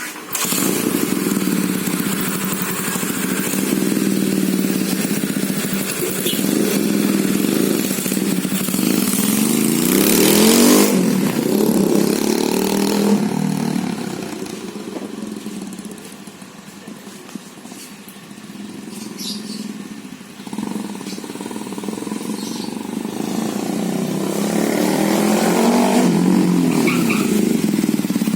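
Yamaha Scorpio motorcycle's single-cylinder four-stroke engine coming to life and being revved up and down repeatedly. It settles to a quieter, lower run from about 14 to 20 seconds in, then is revved again near the end.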